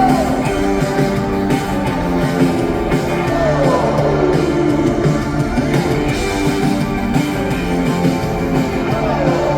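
Live rock band playing between sung lines: electric guitars, bass and drums, with a lead line that slides down in pitch about four seconds in and again near the end.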